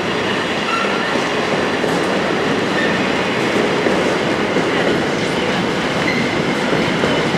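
Loaded container flat wagons of a freight train rolling past: a steady rumble and clatter of steel wheels on the rails.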